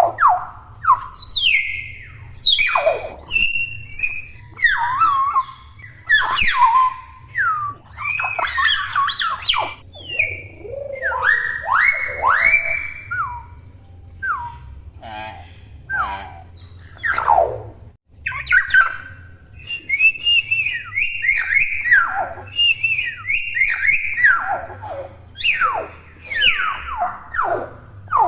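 Young hill myna calling nonstop: a busy string of loud whistles, squawks and chattering calls, many sliding sharply down or up in pitch, with short gaps between them.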